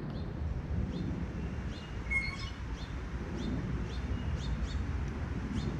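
Small wild birds chirping, short quick calls repeated many times, over a steady low outdoor rumble.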